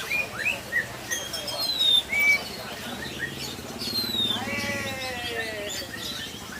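Many caged songbirds chirping and whistling at once, with several short, sharp falling whistles and quick chirps.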